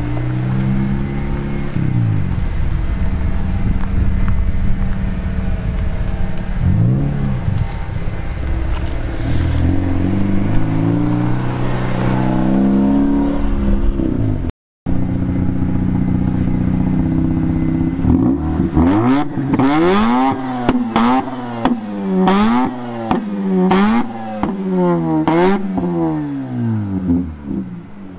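Mazda RX-8's two-rotor rotary engine pulling the car away, its pitch climbing and dropping a few times. Then the engine is revved in quick blips, rising and falling about once a second, eight or nine times.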